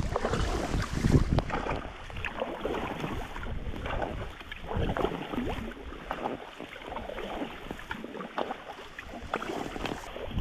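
Rowing boat under way on a river: oars dipping and splashing irregularly, with wind noise on the microphone.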